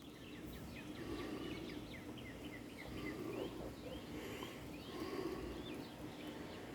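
Small birds chirping faintly: many short, quick chirps in close succession, several a second, over a low steady background noise.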